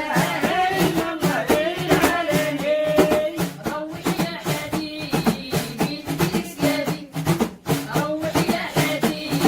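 Devotional dhikr chanting: voices singing a melodic religious chant over a steady beat of hand-played drums.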